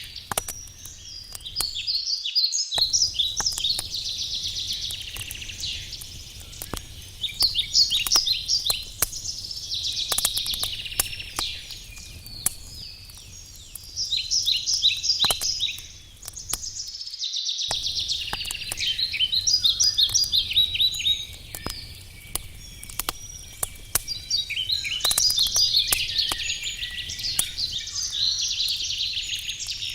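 Wood fire crackling with sharp, scattered pops while songbirds sing repeated trilled phrases every few seconds, the birdsong being the loudest sound. The sound cuts out completely for a moment twice.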